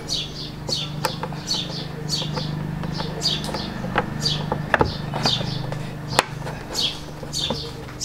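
A bird calling over and over in a steady run of short, falling chirps, about two or three a second. A low steady hum runs underneath. A few sharp clicks come from a small plastic part being pressed into a car's front grille; the loudest are a little before and after the middle.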